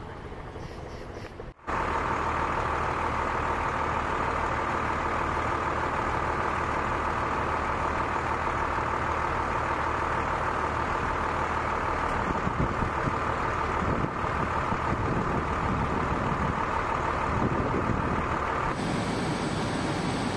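Heavy truck engine running steadily, with a constant whine over a low hum. The whine drops out near the end.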